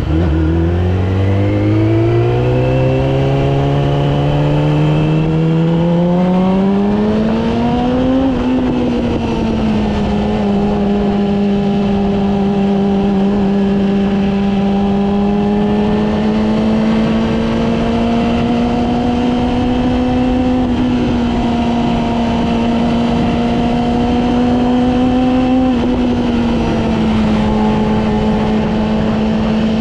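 Yamaha R6's inline-four engine under way, its pitch climbing smoothly as it accelerates for about eight seconds, then a brief dip and a long stretch of steady cruising revs with two small drops in pitch later on, over a constant rush of wind and road noise.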